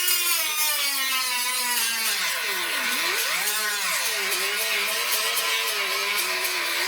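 A handheld electric power tool grinds the steel of a car's wheel well clean, down to bare metal. The motor's whine sags and recovers as it is pressed into the metal, dipping sharply about three seconds in.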